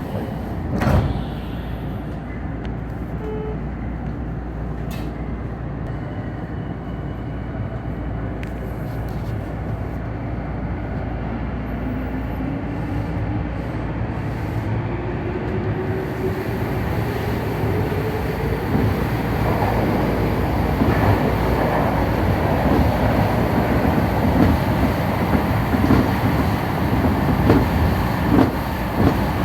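Tokyu Den-en-toshi Line train running, with the whine of its traction motors rising in pitch about halfway through as it picks up speed. The running noise then grows louder, with rumble and clatter of wheels on the rails.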